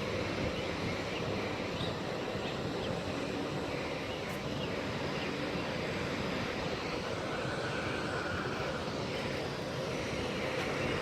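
Jet airliner engines running steadily at low power on the ground, an even whooshing hum with a faint steady tone.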